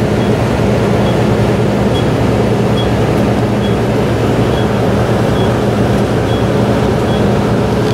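Steady roar of wind and rain on the microphone, with a low steady hum underneath and a faint high tick repeating about once a second.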